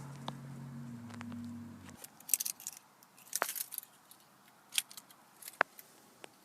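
A low steady hum that cuts off abruptly about two seconds in, followed by scattered sharp clicks and brief crisp rustles.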